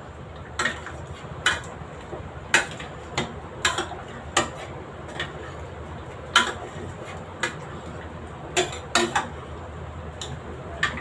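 Ladle knocking and clinking against the pot, at irregular intervals, as boiled potatoes and peas are mashed with it.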